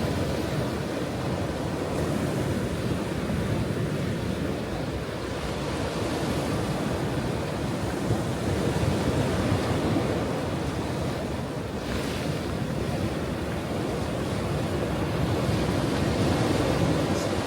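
Ocean waves washing onto a shore: a steady low rushing that swells and eases slowly, with a brief brighter hiss about twelve seconds in.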